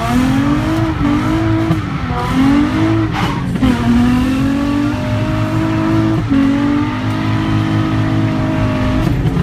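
Car engine running hard, its pitch climbing and dropping back several times, as when accelerating through the gears, then holding steady near the end.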